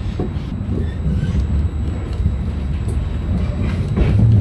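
Trenitalia regional train heard from inside the passenger car while running along the track: a steady low rumble with a few short clicks, growing louder about four seconds in.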